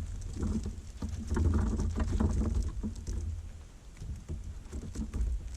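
Dry wood chips rustling and pattering as they are handled and let fall, many small irregular ticks over a low rumble.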